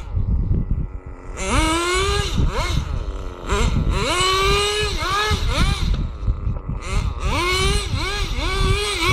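Radio-controlled car's motor revving in repeated bursts, its whine rising and falling in pitch, three main runs about two to three seconds apart.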